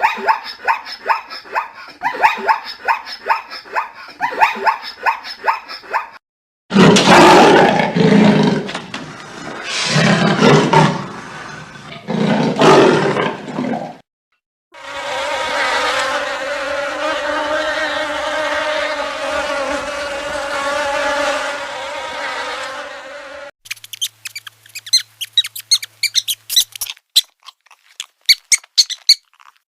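A run of different animal sounds, one after another. First come fast repeated pitched calls. Next come several loud, deep roars, then a steady buzz for about nine seconds, and rapid high chirps near the end.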